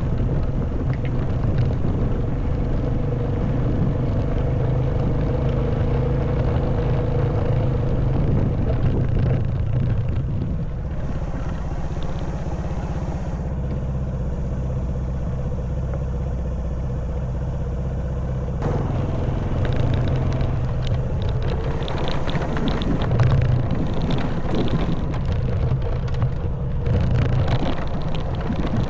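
Honda Wave 110cc single-cylinder four-stroke motorbike engine running steadily as the bike rides over a rough stone and dirt track. The engine note settles into a lower, smoother hum about a third of the way through, and from about two-thirds in a dense rattle and wind noise come back on top of it.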